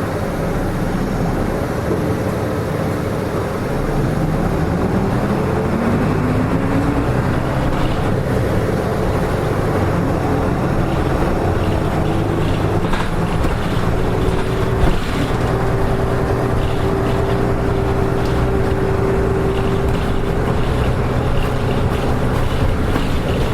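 Nissan Diesel KK-RM252GSN bus's diesel engine pulling away, its pitch rising for a few seconds, then running steadily at a higher speed under way.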